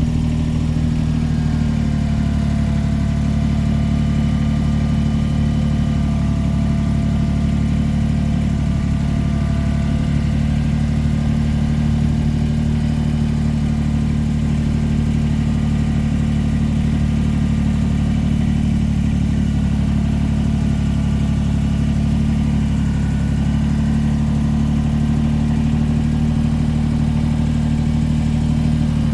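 Tractor engine running steadily at an even speed as it drives along, with a constant low hum that neither rises nor falls.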